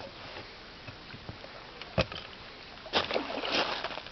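Faint steady background with a single sharp knock about two seconds in, then a short burst of splashing water about a second later.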